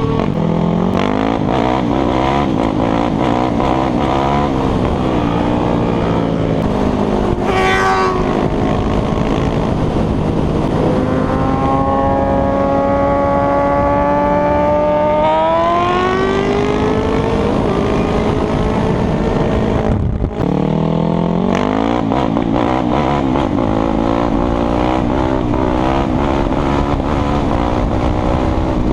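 Sport motorcycle engines running hard, revving and accelerating, with the pitch repeatedly falling and rising through gear changes. Midway through there is one long, steady climb in pitch as a bike accelerates, and there is a brief break about two-thirds in.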